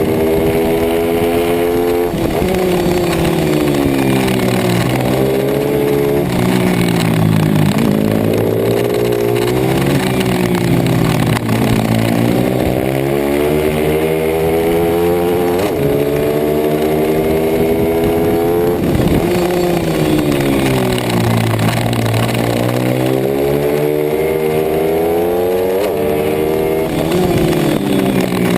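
Pit bike's small single-cylinder four-stroke engine run hard at race pace. Its pitch climbs and drops again and again, every few seconds, as the throttle opens and closes through gear changes and corners.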